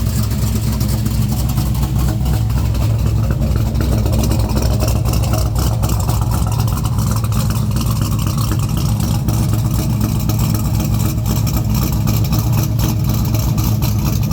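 Vehicle engine idling steadily through newly fitted Jones Flow Pack mufflers, on an exhaust system that is not yet welded up.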